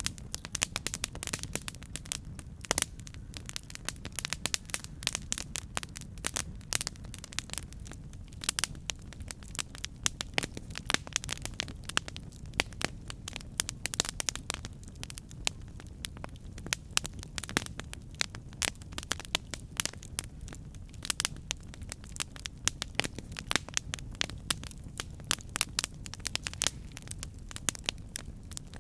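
Campfire burning, with dense irregular crackles and pops from the burning wood over a low steady rumble of the flames.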